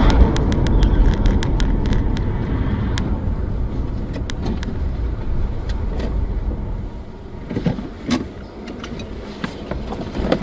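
Steady rumble and road noise of a car driving, with scattered sharp clicks throughout; the noise eases off over the last few seconds.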